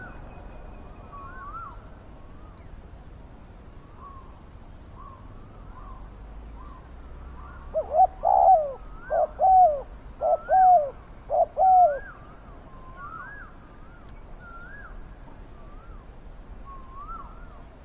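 Spotted dove cooing: one loud phrase of about six low coo notes between about 8 and 12 seconds in, with faint high chirps of small birds repeating throughout.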